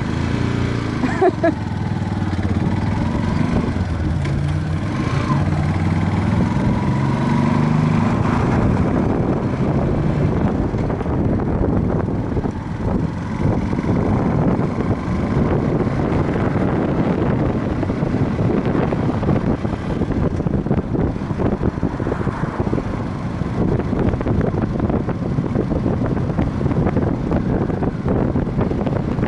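Viper V250C cruiser motorcycle engine pulling away and accelerating, its pitch rising in steps through the gears over the first several seconds, then running steadily at road speed. Heavy wind noise on the microphone covers it.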